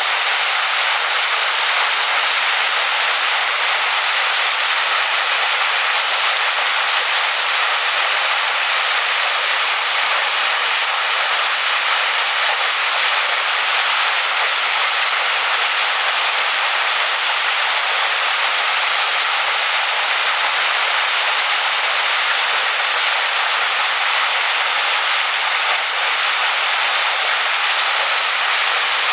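Waterfall splashing onto rocks: a steady, unbroken rush of falling water with a bright, hissing character.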